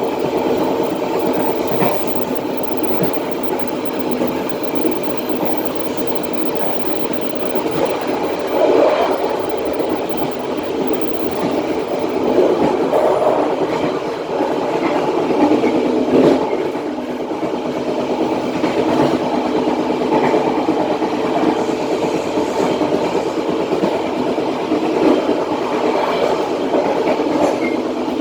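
Passenger train coaches rolling along the track, heard from the rear of the last coach: a steady rumble and rattle of wheels on rail, with louder clattering surges now and then.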